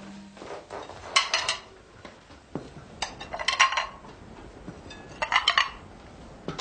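Dishes and cutlery clinking in three short clusters of sharp, ringing clicks, about two seconds apart.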